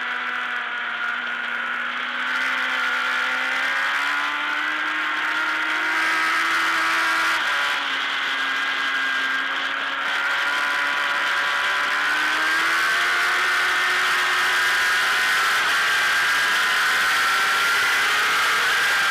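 Racing motorcycle engine heard from onboard at speed: a high, steady engine note that climbs with the throttle, drops suddenly at a gear change about seven seconds in, then climbs again. Wind rushes over the bike throughout, louder in the second half.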